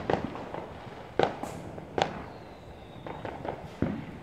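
Neighbourhood fireworks going off: a run of sharp bangs, about four loud ones and several smaller pops, each fading out briefly after the crack.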